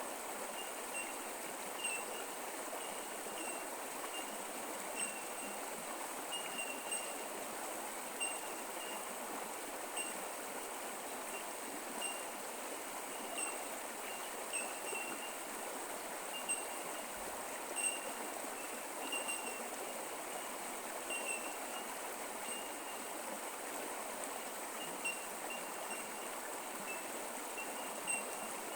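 Creek water flowing and trickling steadily, with many short high-pitched pips scattered through it.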